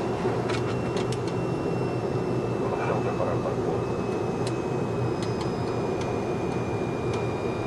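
Steady flight-deck noise of a Boeing 737-200 on final approach in landing configuration, with a thin steady high whine and a few faint clicks.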